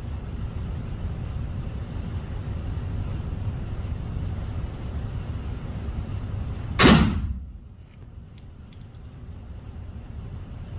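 A single gunshot from a 5.7×28mm firearm about seven seconds in, a sharp crack with a short tail, over a steady low rumble. A few faint clicks follow a second or so later.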